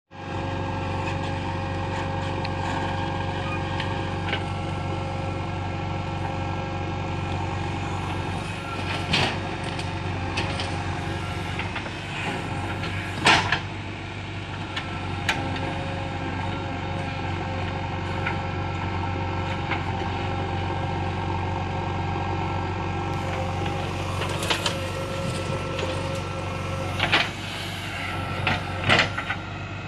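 Heavy diesel machinery running steadily, with a few sharp knocks and clanks, the loudest about 13 seconds in.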